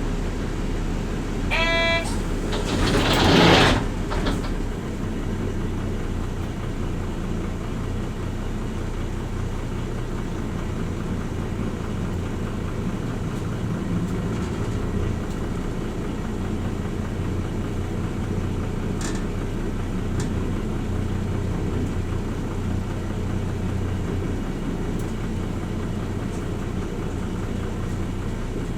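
Hino Rainbow RJ P-RJ172BA diesel city bus heard from inside the cabin. A short electronic tone sounds about a second and a half in, then a loud hiss of air (door or brakes), and after that the engine runs steadily while the bus drives.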